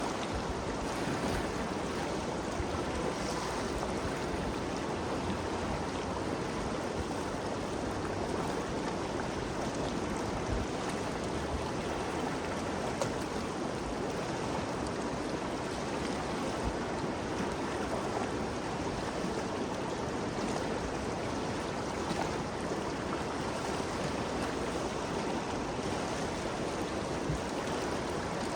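The Ganges River flowing, a steady, even rush of moving water.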